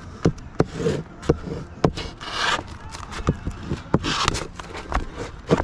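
Hand-tool work on a shingled roof: a run of sharp, irregular knocks and taps, with two stretches of scraping, one about two seconds in and one about four seconds in.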